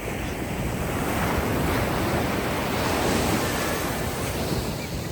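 Ocean wave washing up onto the beach: a rush of surf that swells about a second in and fades away near the end.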